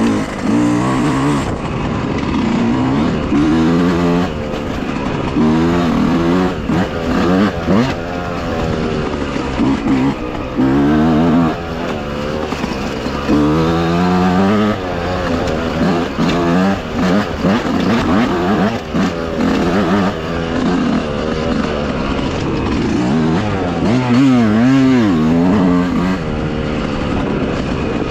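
Dirt bike engine being ridden along a tight trail, its pitch rising and falling over and over as the throttle is opened and closed through the corners.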